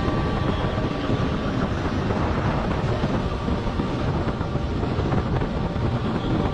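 Police motorcycle engine running at speed under heavy wind rush on the microphone, a dense, steady rumble.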